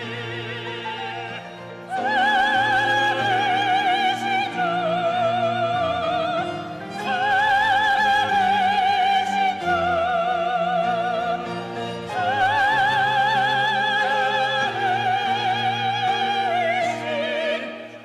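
Classical-style solo singing with wide vibrato on high, held notes, in three long phrases over a string ensemble accompaniment, after a softer opening couple of seconds.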